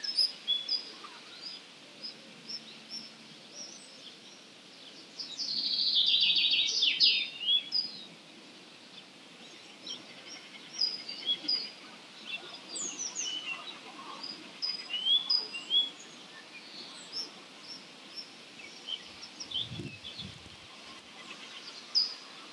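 Dawn chorus of wild songbirds: many short high chirps and whistles from several birds, with a loud, fast, harsh chattering burst about five seconds in that lasts roughly two seconds.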